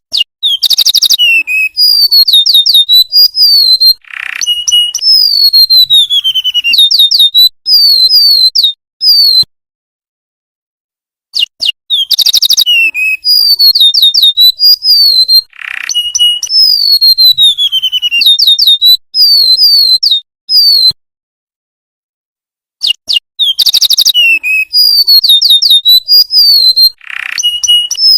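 Golden-bellied gerygone (remetuk laut) song: a quick trill followed by a run of high, sweet whistles that slide downward. The same phrase comes three times with short silent gaps between.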